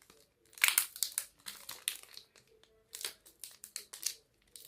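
A plastic chocolate-bar wrapper crinkling as it is handled, in irregular bursts of a second or less.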